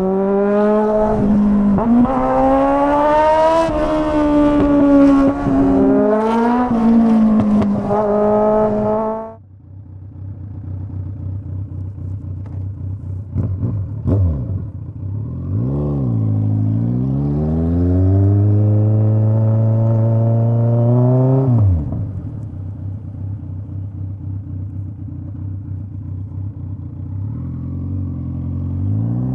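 Straight-piped Kawasaki Z900 inline-four engine accelerating hard for about the first nine seconds, its pitch climbing and dropping back several times with the gear changes, then the throttle shuts off suddenly. It settles to a low, lumpy running note, revs up briefly twice, pulls steadily for a few seconds, drops back to the low note, and starts climbing again near the end.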